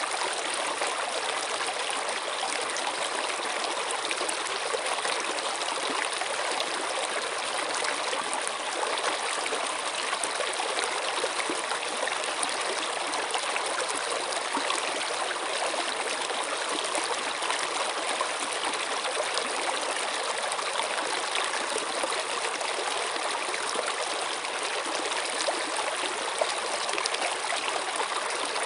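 Running water of a stream or brook, a steady babbling with fine splashing detail and no change in level.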